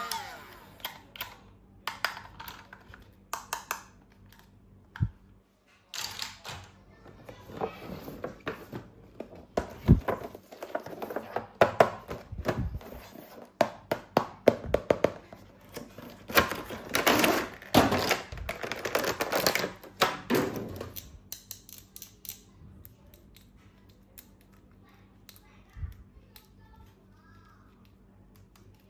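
Plastic toy packaging and toy parts being handled: crinkling and sharp clicks and taps, busiest in the first two-thirds, then only a few faint taps.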